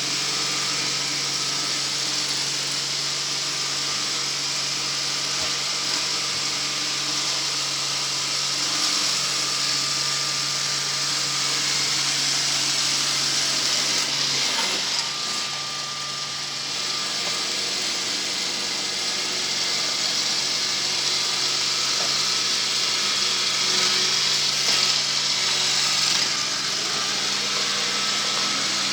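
Motorized sweeping machine running steadily, a motor hum under a loud hiss of air. About halfway through, the hum shifts and the sound drops a little for a moment before going on.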